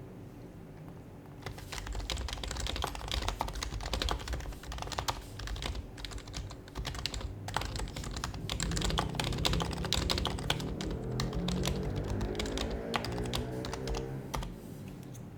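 Rapid, continuous typing on an HHKB Professional HYBRID Type-S keyboard with Topre capacitive keys, a dense run of keystrokes. It starts about a second and a half in and stops about a second before the end.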